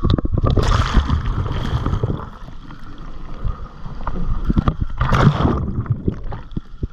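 Surf washing and churning around a handheld GoPro in choppy shore-break: a low rumbling slosh with two rushing surges of wave wash, about a second in and again around five seconds, and scattered knocks and splashes against the camera.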